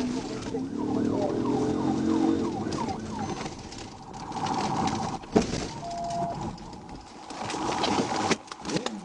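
Police car siren sounding in a fast yelp, changing to a steady rapid warble about four seconds in, with a couple of sharp knocks.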